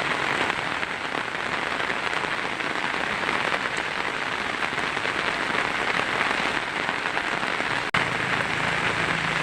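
Heavy rain drumming steadily on a tin roof, with a momentary break and click about eight seconds in.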